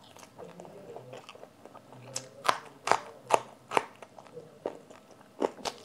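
Close-miked eating: crisp food, papad and then a raw green chilli, crunched between the teeth. A run of five or six sharp crunches starts about two seconds in, and two more come near the end, with softer chewing between.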